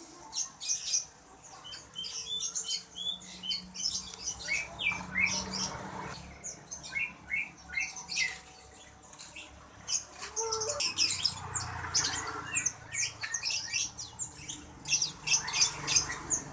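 Many caged songbirds chirping and squeaking together, short high calls overlapping one another throughout.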